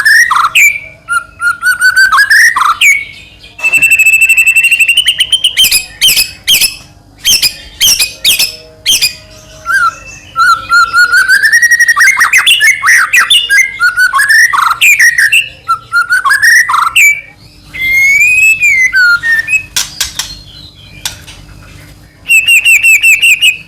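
White-rumped shama (murai batu) singing loudly and continuously: a varied run of clear whistled phrases and sliding notes, sharp clicking notes, and fast trills of one rapidly repeated high note about four seconds in and again near the end.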